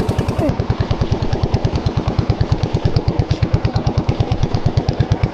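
Small boat engine running steadily at trolling speed, with a fast, even thudding beat of about ten to twelve pulses a second.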